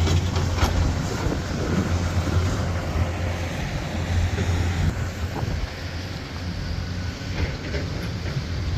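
Steady low rumble of a running vehicle or machine, with wind on the microphone and a few brief clicks.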